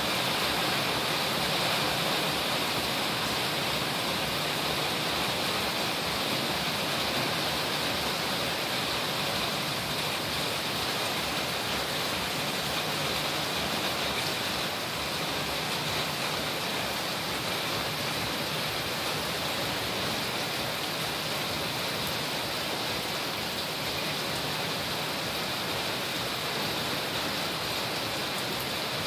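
Heavy monsoon rain pouring down steadily, an even, unbroken hiss of downpour.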